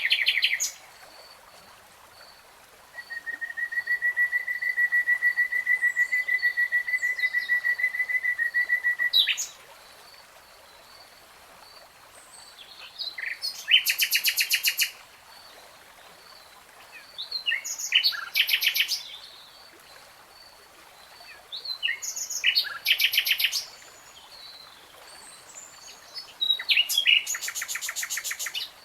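Nightingale singing. A long trill of rapid repeated notes on one pitch lasts about six seconds. It is followed by four short phrases of fast rattling notes, separated by pauses of a few seconds.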